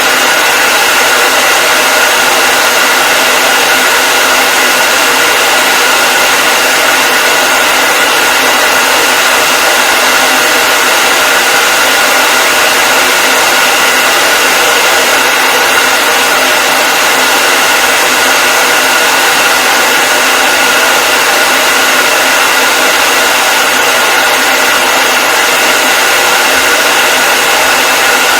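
Hair dryer running steadily: a loud, unchanging rush of air with a constant high motor whine.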